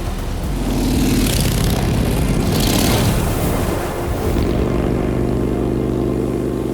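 Harley-Davidson motorcycles riding past: two rushing pass-bys about a second and a half apart, then a steady, even engine drone.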